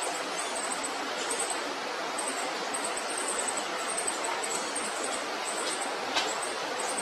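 A baby bird's thin, very high chirps, short and in quick irregular clusters, over a steady hiss.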